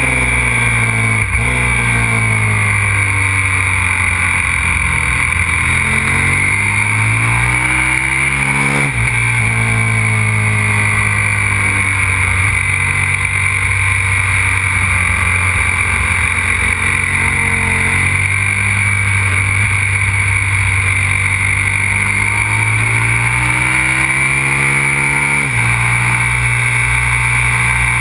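Aprilia RXV 550 supermoto's V-twin engine on track, revs falling and rising again and again as it brakes and accelerates through corners, with sudden pitch jumps at gear changes about a second in, around nine seconds and near the end. Steady wind hiss lies under it.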